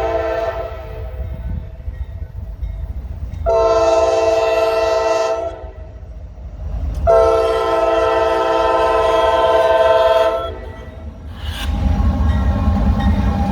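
Norfolk Southern freight locomotive's air horn sounding a chord in repeated blasts as the train approaches: one fading out in the first second, a short blast a few seconds in and a longer one after it. Near the end the horn stops and the locomotive and cars rumble past close by.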